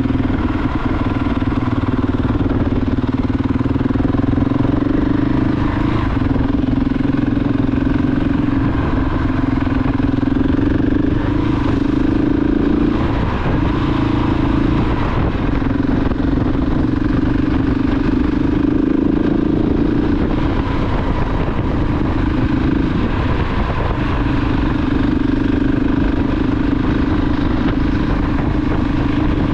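KTM 690 Enduro R's single-cylinder engine running at a steady riding speed. Its note dips briefly a few times in the second half, as the throttle eases or the gears change, then returns.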